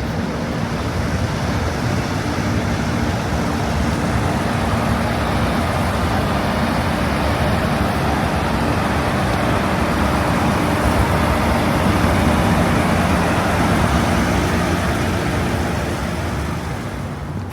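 City street traffic noise: a steady rush of passing vehicles with a low engine hum underneath, swelling a little past the middle and easing off near the end.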